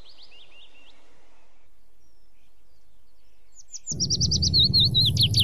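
Birds chirping: a few quick high calls at the start, then after a quiet gap, about four seconds in, a louder run of rapid chirps and whistles over a steady low rumble.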